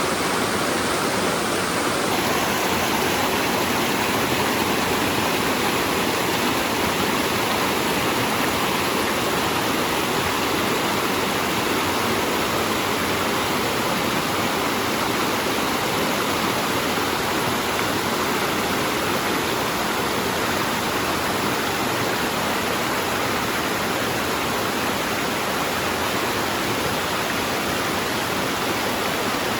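Rushing water, a steady unbroken noise with no let-up, as of a waterfall or fast mountain stream tumbling over rocks.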